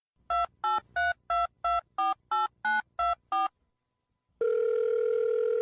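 Touch-tone telephone dialing: ten quick two-tone keypad beeps in a row, then after a short pause one steady tone held for about a second and a half.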